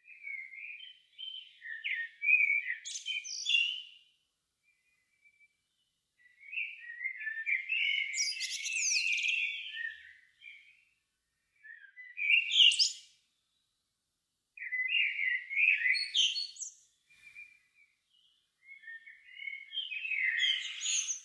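Songbird singing in five separate phrases, each one to four seconds long, with short quiet gaps between them.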